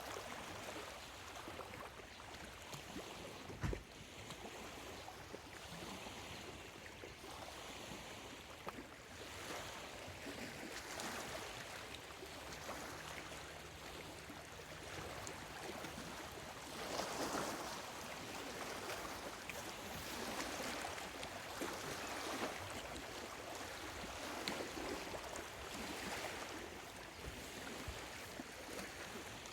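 Small lake waves lapping at the shore, washing in and out in gentle swells every few seconds, with a single soft knock a few seconds in.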